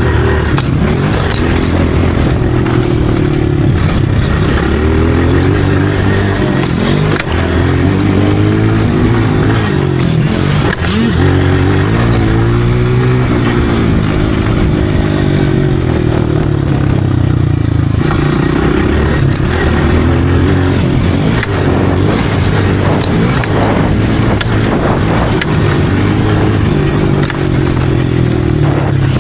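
Dirt bike engine revving up and down continuously as it is ridden, its pitch rising and falling over and over.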